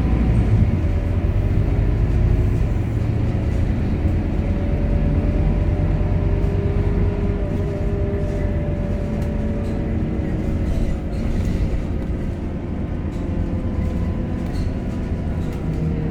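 Scania K230UB city bus running: a steady low engine rumble with a faint whine that slowly rises in pitch and then falls away again.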